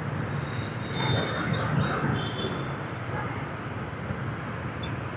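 Motorbike traffic heard from a moving motorbike: a steady din of engines and road noise with a low hum. Brief high-pitched squeals come from about one to two and a half seconds in.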